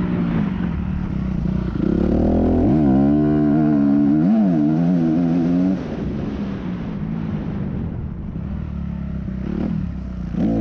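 Motocross dirt bike engine revving, its pitch rising and falling as the throttle is worked. About six seconds in it drops back to a quieter, lower note, then picks up loudly again near the end.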